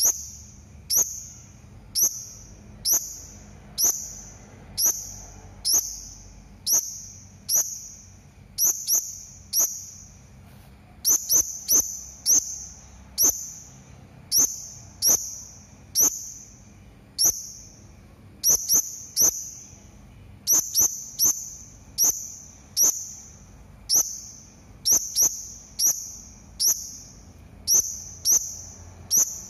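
Hanging parrot (serindit) giving short, shrill, high-pitched calls about once a second, sometimes two in quick succession, with a brief pause about ten seconds in.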